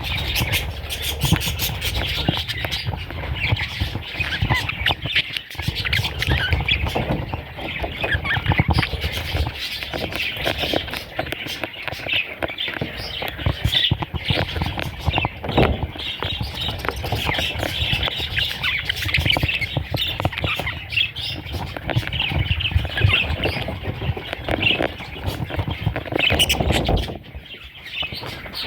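Baby budgerigars squawking and chirping continuously in a raspy chatter, over low rumbling and small knocks. The calling dips briefly near the end.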